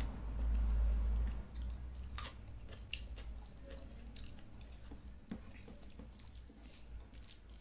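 Close chewing of a mouthful of rice and potato eaten by hand, with small wet clicks and crackles from the mouth and fingers working the food on the plate. A low rumble fills the first second and a half.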